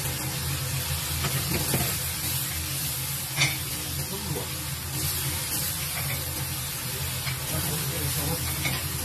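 Sliced green vegetables sizzling as they stir-fry in a pan over a gas flame, stirred with a wooden spatula. A single sharp knock stands out about three and a half seconds in.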